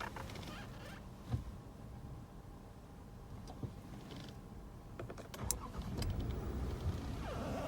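Car engine: a few clicks and knocks, then a low engine rumble that comes in about six seconds in and keeps running.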